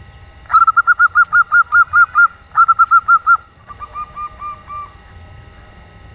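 Female zebra dove (perkutut) calling in the rapid 'nyelir' style: two loud runs of quick cooing notes, about five or six a second, followed by a fainter run of slightly lower notes.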